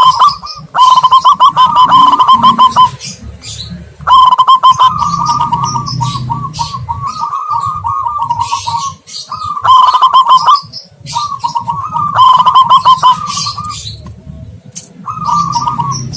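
Zebra doves and spotted doves cooing in repeated phrases of rapid, stuttering notes, each phrase one to two seconds long with short pauses between. Faint high chirps of small birds sound alongside.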